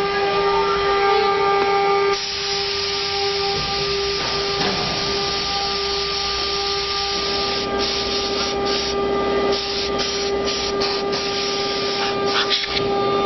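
CNC engraving router at work: the spindle whines at a steady pitch while the bit cuts a two-colour engraving board, adding a dense cutting hiss from about two seconds in. In the second half the hiss breaks off briefly several times as the cutting stops and resumes.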